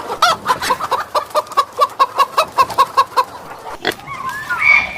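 An animal calling in an even, rapid series of short pitched notes, about five a second for some three seconds, then a sharp click and a few gliding calls near the end.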